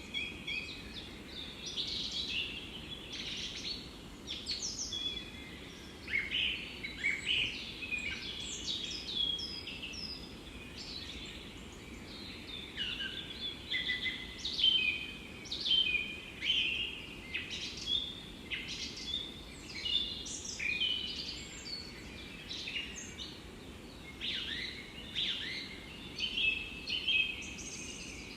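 Several songbirds singing and chirping in a forest, many short overlapping calls and trills throughout, over a steady low background hush.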